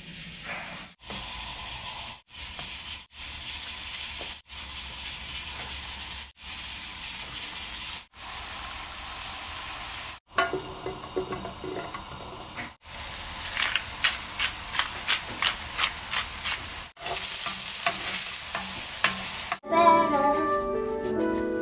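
Zucchini and ham flower pancakes frying in oil in a pan: a steady sizzle, cut off by brief gaps every one to two seconds, with a run of quick crackles partway through.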